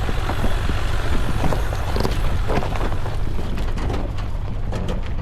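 Jeep Wrangler climbing a dirt road, heard from inside the cab: a steady engine and road rumble with frequent small knocks and rattles.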